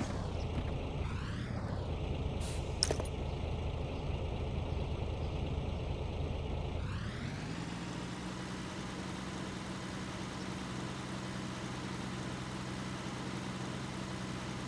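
Small motor of a DIY model tractor running with a steady drone; about seven seconds in its pitch rises and holds at a higher level. A couple of short clicks come near three seconds in.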